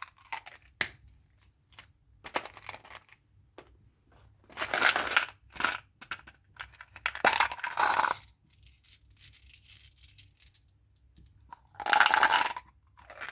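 Chewing gum packaging being handled and torn open: separate bursts of crinkling and tearing, the loudest about a second long, with quieter handling between them.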